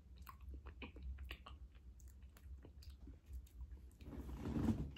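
Close-up mouth sounds of ice cream with chocolate brownie pieces being eaten off a spoon: soft chewing with small wet clicks of lips, tongue and spoon. Near the end comes a louder breathy exhale.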